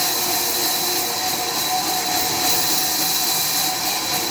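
Sawmill machinery running steadily: a constant hiss with a steady high whine.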